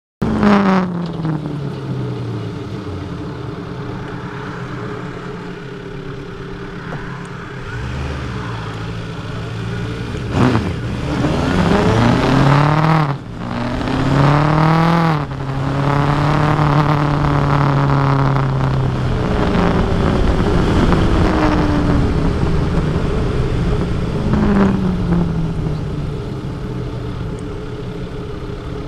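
Kawasaki Versys 1000 SE motorcycle's inline-four engine under way: its pitch falls as it slows at first, then it revs up twice, about 11 and 14 seconds in, with a sudden drop between them at a gear change. It holds a steady high note for a few seconds, then slows again twice, the pitch falling each time.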